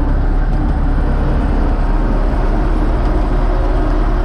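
Universal U650 tractor's four-cylinder diesel engine running steadily.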